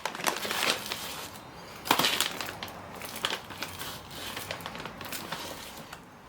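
Dried mealworms and their packet rustling and crackling as they are handled, with scattered sharp clicks, the loudest about two seconds in, dying away near the end.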